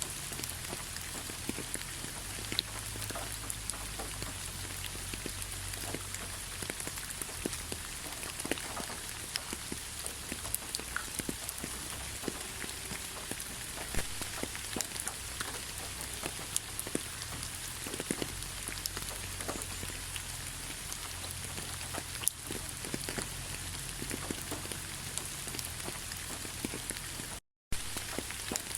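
Steady rain, an even hiss with many individual raindrops ticking sharply on a surface. The sound cuts out for a moment near the end.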